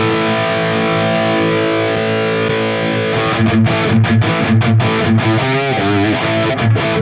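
High-gain distorted electric guitar through a Soldano amp model on a Valeton GP-200 modeler, playing a rhythm riff. A held chord gives way to short, rhythmic low chugs, with a bent, wavering note near the end.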